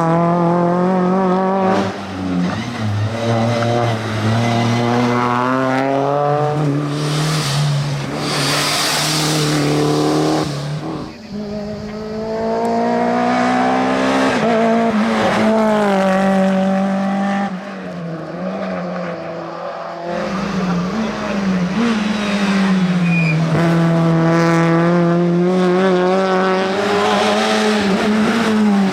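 Rally car engines driven hard at race pace, the revs climbing and falling again and again through gearshifts and lifts for corners. Tyres squeal at times.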